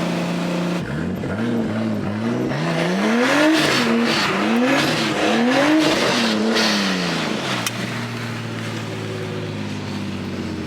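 Car engine revved up and down about six times in quick succession, as in a slide, then settling back to a steady idle near the end.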